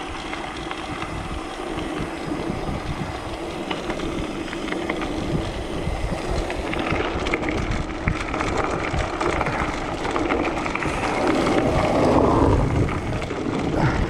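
Mountain bike riding on an unpaved road: steady tyre rumble and rattle, with wind buffeting the microphone. It grows louder a few seconds before the end.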